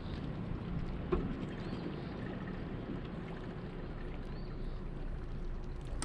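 An engine running steadily with a low hum, with a light knock about a second in and a thump at the end.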